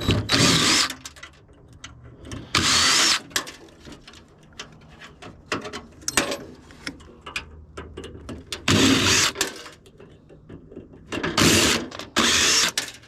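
A handheld power tool run in four short bursts of under a second each, with clicks and knocks of metal parts being worked between them.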